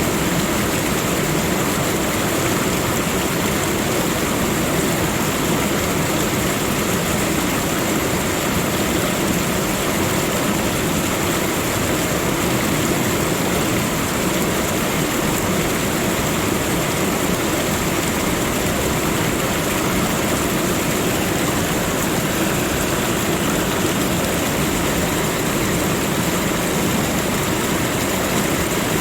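Steady rushing of running water, even and unchanging in level throughout.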